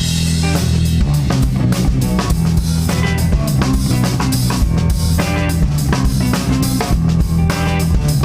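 Live band playing a song's instrumental intro: drum kit, two guitars and bass guitar, coming in together abruptly and then holding a steady beat.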